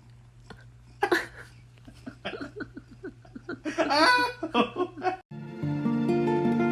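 A person laughing in short bursts over a low steady hum. It cuts off abruptly and strummed guitar music starts near the end.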